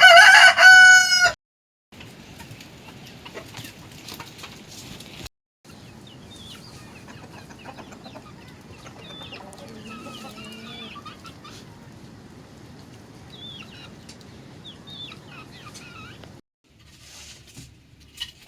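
A rooster crowing loudly for about a second at the start. After short breaks, chickens cluck and give soft short calls over a faint background.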